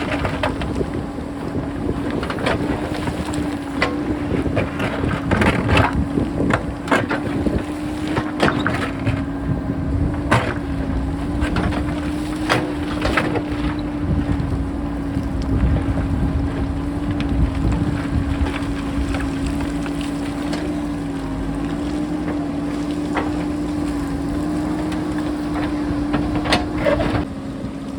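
JCB backhoe loader's diesel engine running steadily under load, with rocks clattering and knocking repeatedly as they are cut from the hillside and roll down. Strong wind buffets the microphone throughout.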